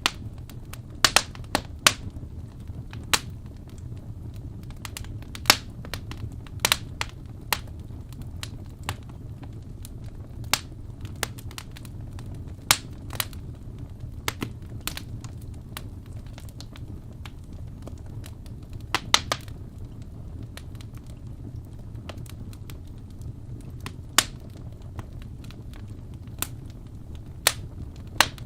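Wood fire in a fireplace crackling: irregular sharp pops and snaps, a few every couple of seconds, over a steady low rumble of the flames.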